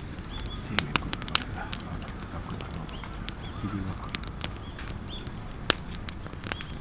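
Wood campfire crackling, with sharp pops at irregular intervals, several in some seconds and fewer in others.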